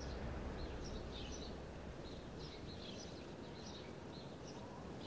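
Birds chirping: scattered short, high chirps over a faint, steady outdoor background noise.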